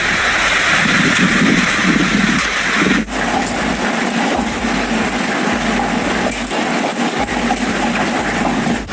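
Hail and heavy rain pelting down in a dense, loud, continuous clatter, with an abrupt break about three seconds in.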